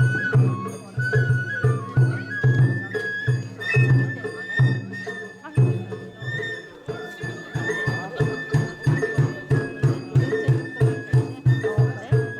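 Japanese festival hayashi music: a high flute melody in long held notes over steady drum beats, about two to three a second. The drumming eases for a moment midway, then carries on.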